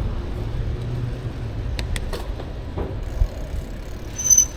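Steady wind and road rumble from a moving bicycle, with a few faint clicks about two seconds in. Near the end the bike's brakes start to squeal with a high-pitched tone: the brakes are bad.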